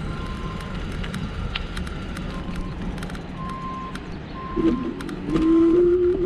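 Wind and road noise while riding an electric bike, with scattered light clicks. About four and a half seconds in, a louder pitched hum joins and rises slightly in pitch.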